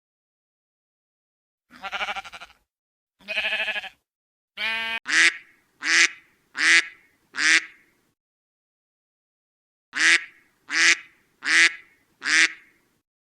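Duck quacking: a few longer, wavering calls, then two runs of four short, sharp quacks with a pause of about two seconds between the runs.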